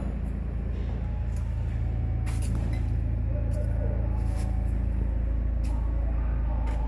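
A used Kia car engine running steadily, a low even drone with a few sharp clicks over it.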